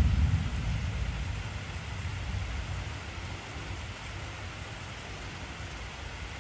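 Steady heavy rain hissing, with a deep rumble of thunder that breaks in suddenly at the start and rolls away over the next few seconds.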